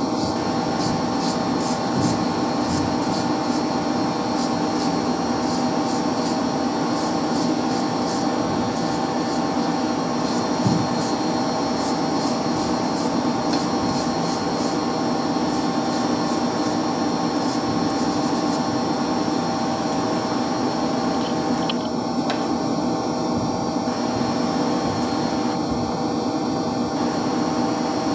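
Steady mechanical hum of running electric pump motors, with several steady tones under a hiss. There is one short thud about ten seconds in.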